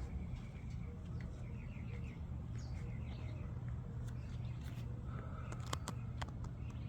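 Small birds chirping in short, quickly repeated notes over a steady low hum, with a few sharp clicks about six seconds in.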